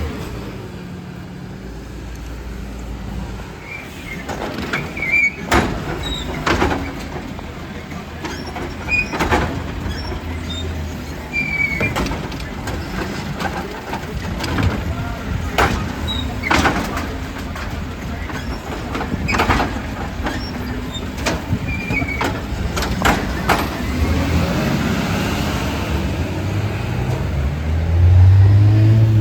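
Glass recycling truck at work: its engine runs under a string of irregular sharp crashes and clatters, glass being dumped into the truck. The engine revs up near the end.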